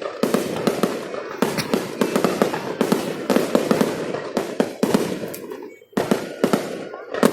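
Fireworks going off in rapid succession: a dense run of sharp bangs and crackles, with a brief lull about six seconds in before more bangs.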